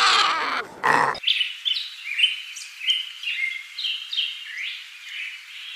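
A loud animal call ends abruptly about a second in, followed by small birds chirping: quick, high, sweeping notes repeated several times a second.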